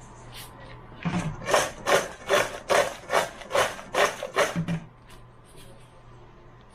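Freshly fried french fries being salted in a pan: about ten quick, rhythmic shakes, roughly two and a half a second, each with a light rasping scrape.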